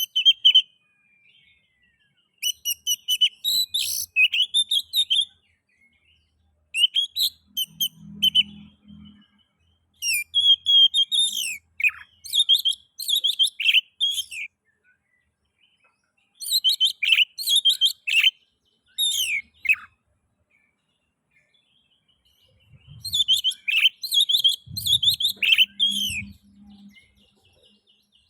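Oriental magpie-robin (kacer) singing: about six phrases of rapid, varied high whistled notes, each a few seconds long, with short pauses between them.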